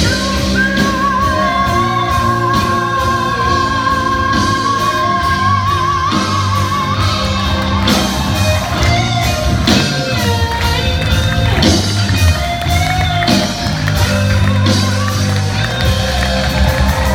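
Live band music from a vocal-instrumental ensemble, with bass, guitar and a steady beat. A long held note with vibrato runs through the first half, then the melody moves on.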